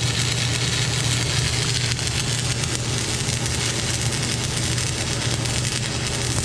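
Electric welding arc sizzling and crackling steadily as a bead is run, over the welding machine's steady low hum.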